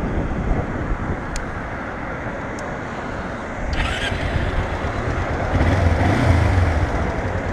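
Motorcycle engine running, getting louder from about four seconds in, with a short hiss near four seconds.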